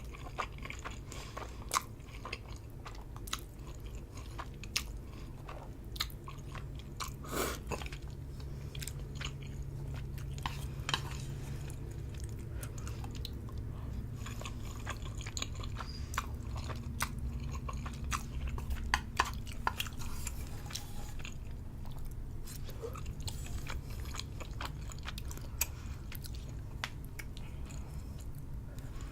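Close-up wet chewing of Samyang instant ramen noodles, with many short mouth clicks and smacks scattered through, over a steady low hum.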